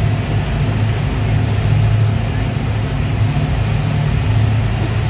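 Speedboat engines running at a steady cruising speed: a continuous low drone with a steady hiss over it.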